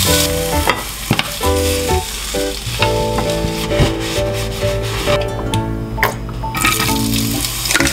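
Ham strips frying and sizzling in a square egg pan, with background music playing over it. The sizzle drops away for about a second near the end, then comes back.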